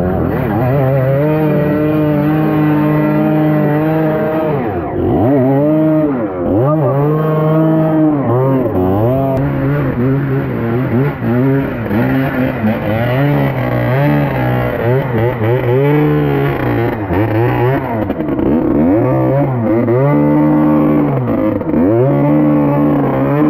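Trail motorcycle engine revving up and down over and over, its pitch rising and falling in quick swells.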